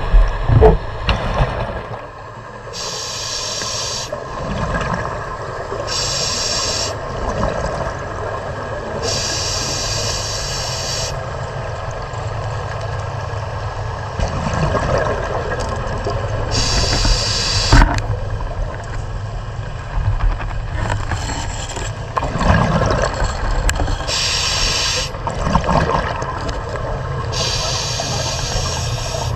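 Dive boat's engine running steadily. About six short hisses, each one to two seconds and starting and stopping abruptly, come through over it, along with a few knocks.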